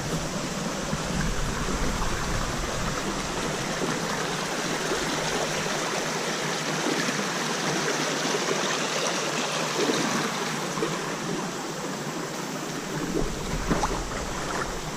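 Creek water running high, a steady rush of flowing water.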